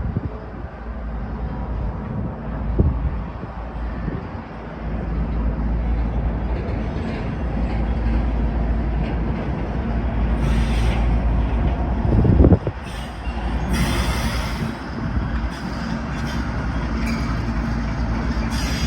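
BNSF manifest freight train passing, its diesel locomotives rumbling steadily with engine tones. About twelve seconds in comes one loud, low thump, and there are a few short spells of hiss.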